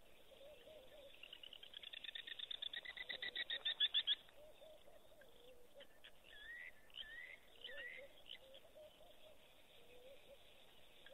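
Wild birds calling: a series of repeated high notes that speeds up and grows louder for about three seconds, then stops abruptly, followed by a few short gliding whistled chirps over a faint background of lower chattering calls.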